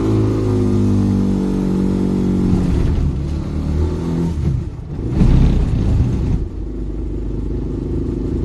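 A vehicle's engine running as it pulls away and drives off, heard from inside the cab. The pitch slowly falls as the revs drop over the first few seconds, with a rougher, louder stretch about five seconds in before it settles.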